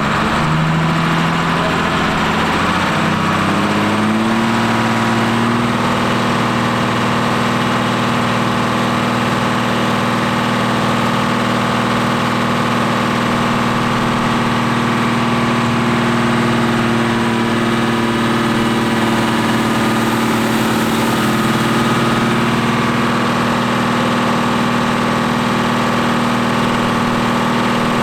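New Holland TM140 tractor's diesel engine on a power-take-off dynamometer, revving up over the first few seconds and then held steady at high revs.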